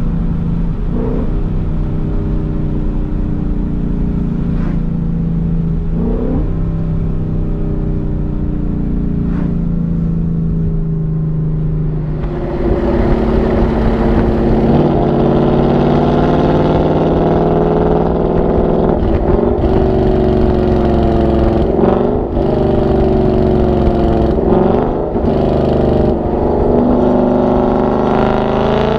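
2018 Ford Mustang GT's 5.0 L V8 through a Borla ATAK axle-back exhaust with X-pipe resonator delete, while driving. It holds a steady deep note for about twelve seconds, then gets louder under throttle and climbs in pitch through several gear changes, each a brief drop in pitch.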